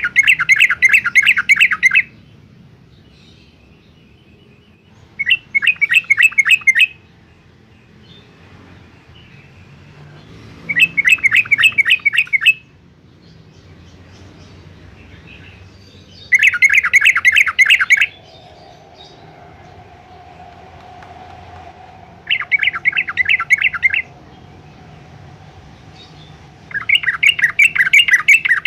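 Yellow-vented bulbul singing: six short bursts of rapid, repeated notes, each lasting about two seconds and coming every five to six seconds.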